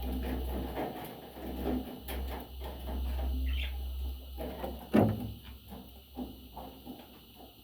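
Pet parrots moving about: scattered clicking, scratching and rustling, a brief high chirp about three and a half seconds in, and a sharp knock about five seconds in, over a low rumble that fades after the knock.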